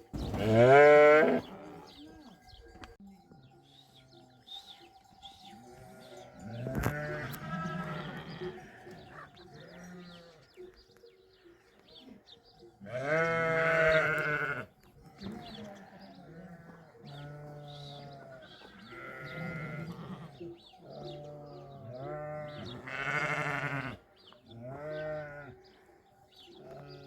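A flock of sheep bleating, with many separate calls at different pitches following one another, the loudest about a second in and again around seven, fourteen and twenty-three seconds.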